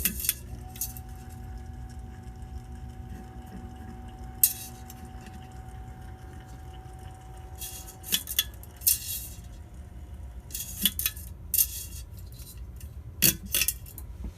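Schoolhouse glass light globe on a ceiling fan clinking several times. One early strike leaves a clear ringing tone that lasts several seconds.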